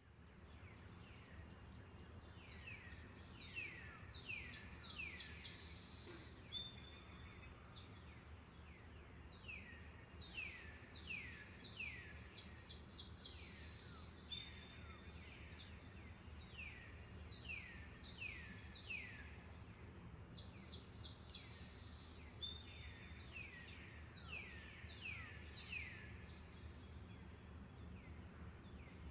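Birds singing in the forest, phrase after phrase of quick falling notes, over a steady high insect buzz and the low, even rush of a slow river.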